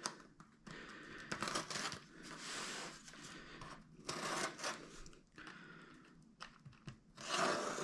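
Plastic wrapping being handled and torn: irregular crinkling and tearing in uneven bursts.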